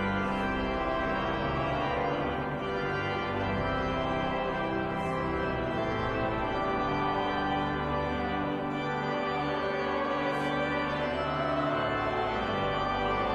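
Pipe organ playing slow, held chords that change every second or so.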